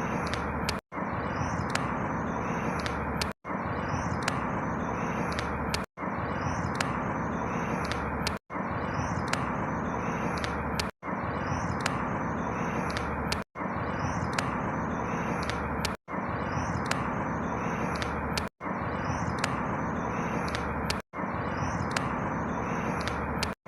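A short recording of outdoor ambience, a steady background rush with a few small bird chirps, looped over and over about every two and a half seconds, with a brief cut to silence at each join.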